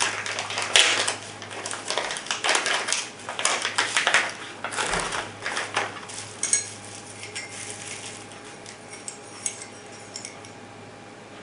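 Packaging being opened and handled, with dense rustling and crinkling for about six seconds. After that come sparse light metallic clinks as the anodized aluminum pistol grip panels are handled.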